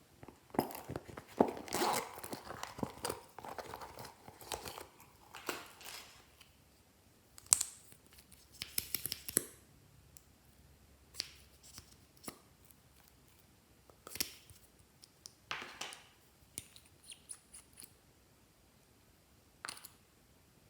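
Glossy slime being squished and stretched by hand, giving sticky clicks, crackles and little pops. They come in a dense run for the first few seconds, then as separate short bursts every second or two.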